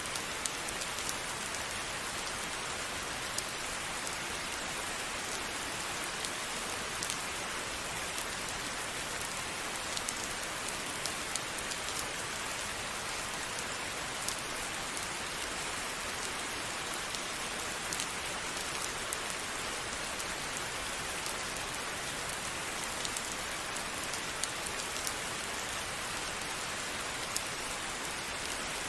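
Steady rain falling and pattering on a surface, with scattered individual drop taps heard above the even hiss.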